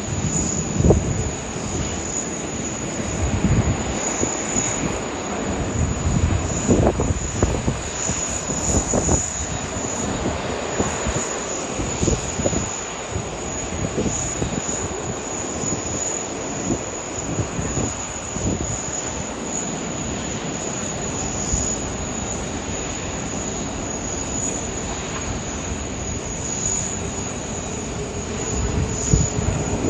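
Jet airliner engines running, a steady rushing roar with a thin, constant high whine and uneven low surges.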